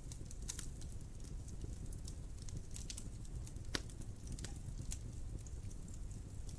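Wood fire burning in a fireplace: a steady low rumble with irregular sharp crackles and pops, one louder pop about halfway through.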